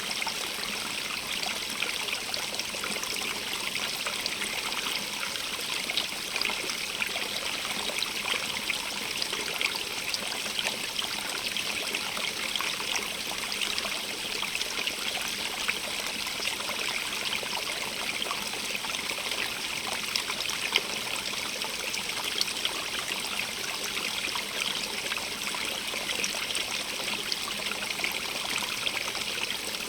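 A stream running steadily over rocks, a constant rushing hiss with many small splashes and trickles.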